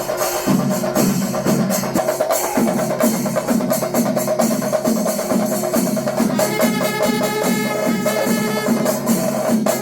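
Kerala temple festival percussion ensemble drumming in fast, dense, even strokes. About six and a half seconds in, a higher pitched held tone joins over the drums.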